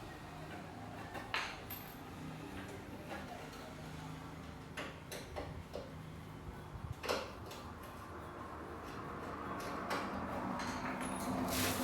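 Scattered light metallic clicks and taps over a steady low hum.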